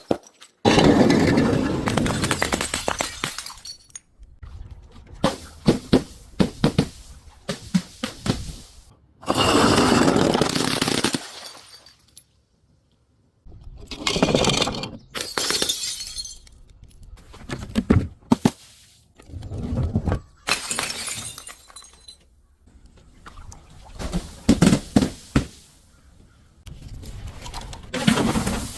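Glass bottles breaking and crunching, one after another. Each break has sharp cracks and a spread of bright glass fragments. There is a short silent pause about halfway through.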